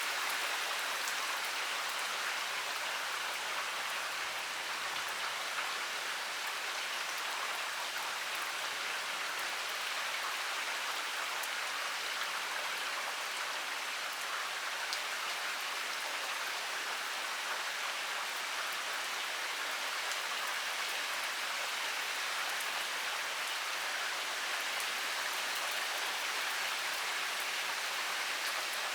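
Heavy rain pouring steadily, an even hiss with the patter of individual drops striking a surface.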